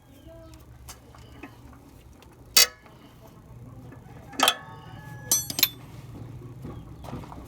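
Metal hand tools clinking against metal: a loud ringing clank about two and a half seconds in, another near the middle, and a quick run of ringing clinks a second later, over a low steady hum.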